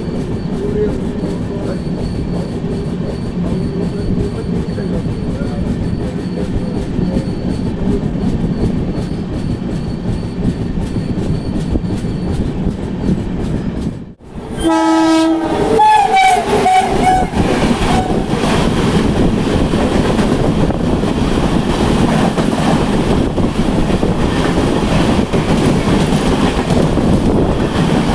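Express train running on the track with a steady rumble and even clickety-clack. About halfway through there is a brief break, then a train horn sounds for a couple of seconds, and louder running noise follows.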